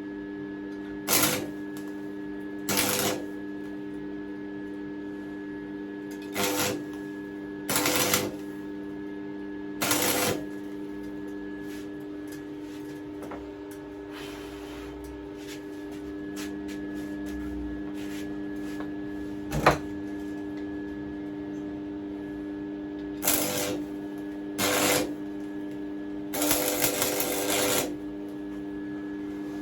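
Stick welder striking a series of short arcs, about eight brief noisy bursts of a second or so each with a gap in the middle, building up weld on damaged metal. A steady hum runs underneath, and a single sharp knock comes about 20 seconds in.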